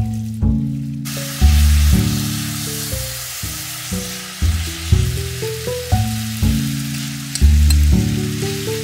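Glass noodles sizzling as they fry in sauce in a pan while being stirred, starting abruptly about a second in, with a few light clicks near the end. Background music plays throughout.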